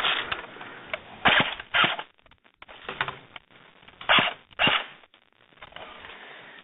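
Airsoft gun firing single shots, about six sharp pops, the loudest in two quick pairs about a second in and about four seconds in.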